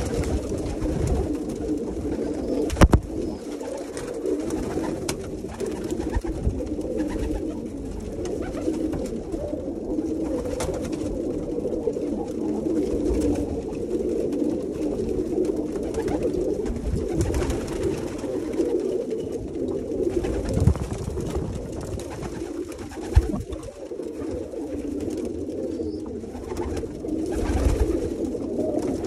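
A flock of domestic pigeons cooing together in a continuous, overlapping murmur, with a few sharp knocks now and then.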